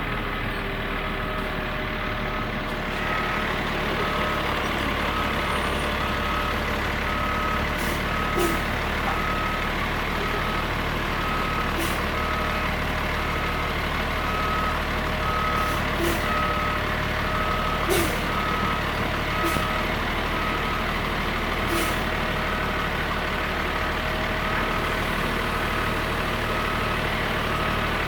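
Garbage truck's backup alarm beeping steadily at an even pace over the low running of its Caterpillar C7 diesel as the truck reverses. A few short sharp clicks sound along the way.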